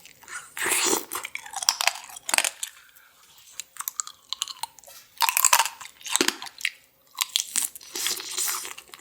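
Biting and chewing tanghulu: the hard sugar-candy shell on the fruit cracks and crunches between the teeth in repeated bursts, with short pauses between bites.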